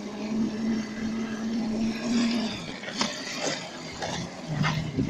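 Small dirt bike engine running at a steady pitch. Its note drops away about halfway through, a few sharp knocks follow, and it comes back at a lower pitch near the end.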